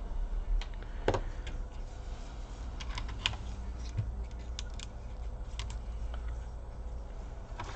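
Scattered light clicks and taps of a small screwdriver and screws against a laptop's plastic case during reassembly, coming singly and in small clusters with short pauses between.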